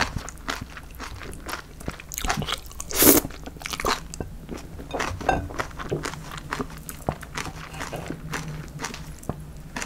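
Close-miked chewing of a mouthful of spicy chewy cold noodles (jjolmyeon) with bean sprouts: wet mouth clicks and crunches, with one louder crunch about three seconds in.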